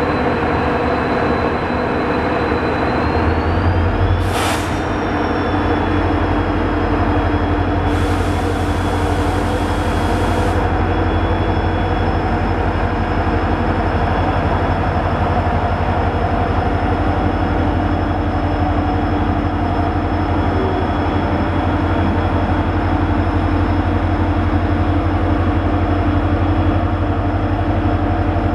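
Diesel generator sets of an LHB luggage-brake-and-generator car running with a steady hum as the train pulls slowly out, followed by LHB coaches rolling past. A short sharp sound comes about four seconds in, and a hiss lasts a couple of seconds from about eight seconds in.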